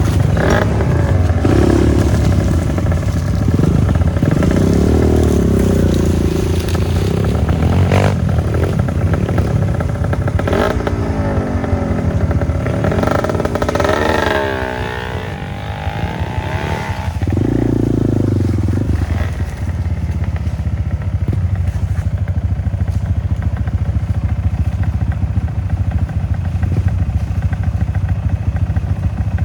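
Trail motorcycle engine ridden hard over gravel, its pitch rising and falling as the throttle opens and closes, with a few sharp knocks from stones and clattering from the terrain. In the second half it settles into a steadier run.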